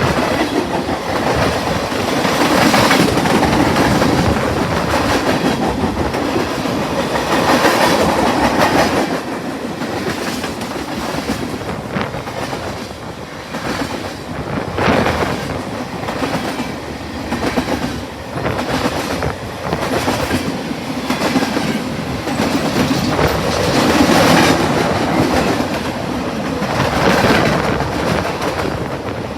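Cars of a BNSF manifest freight train rolling past, their wheels clacking over rail joints in a continuous rumble that swells and eases as the cars go by.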